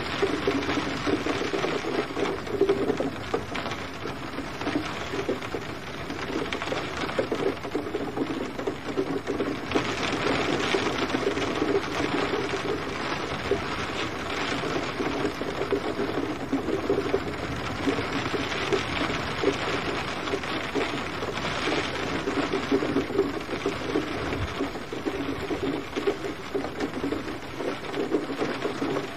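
Steady rain falling and pattering on a surface, a dense even hiss that swells slightly at times.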